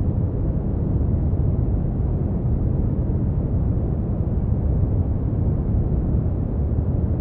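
Brown noise: a steady, deep rumbling hiss, strongest in the low end and falling off toward the highs, with no change in level.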